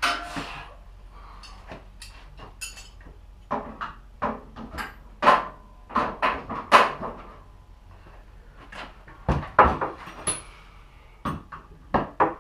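Irregular clanks and knocks of metal tools and parts being handled and set down, in clusters with short pauses between them.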